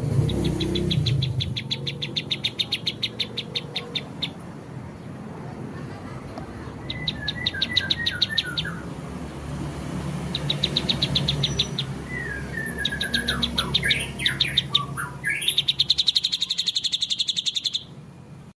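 Songbird giving a harsh, rapid-fire 'tembakan' song: several runs of quick repeated notes, about ten a second, broken by short falling whistles, over a low background hum. The recording cuts off suddenly near the end.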